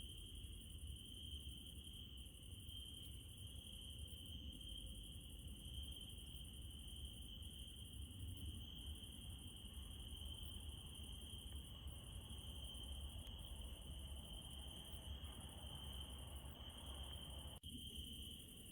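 Steady, faint chirring of crickets at night over a low rumble, with a momentary dropout near the end.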